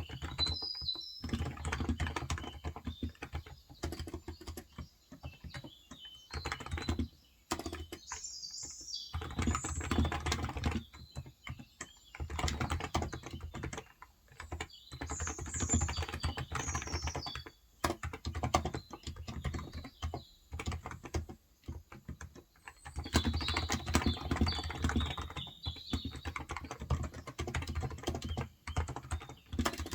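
Typing on a Cox Endeavor electro-capacitive (Topre-style) 35 g tenkeyless keyboard, steady runs of keystrokes broken by short pauses. Birds chirp faintly in the background.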